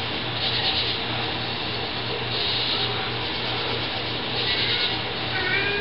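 Crickets chirping outside in short bursts about every two seconds, over a steady hiss and a low electrical hum from the recording.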